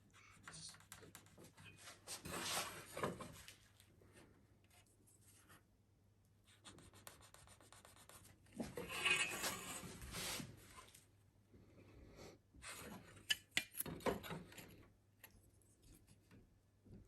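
Hand work on wood: two bursts of rubbing and scraping, each a second or two long, then a few light taps and clicks about two-thirds of the way through.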